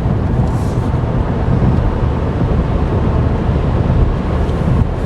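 Steady low rumble of road and tyre noise inside the cabin of a moving 2011 Chevy Volt.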